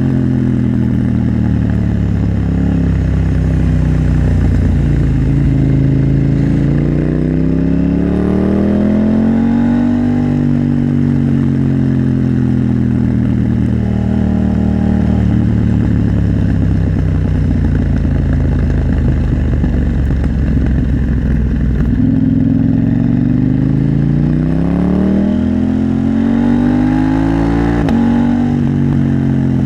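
KTM 890 Duke R parallel-twin motorcycle engine under way, its revs climbing and easing with the throttle. The revs climb steadily near the end, then drop sharply.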